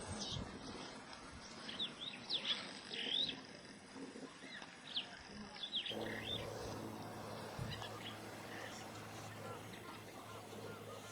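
Wild birds calling: a run of short, sharp chirps in the first half. After an abrupt change about six seconds in, softer repeated notes come over a low steady hum.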